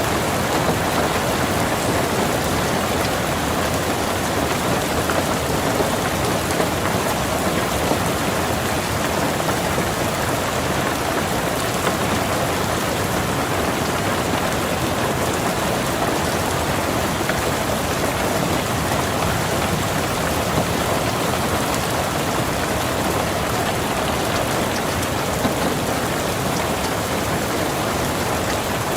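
Steady rain falling on a car, heard from inside: an even hiss of many drops with scattered single drop ticks.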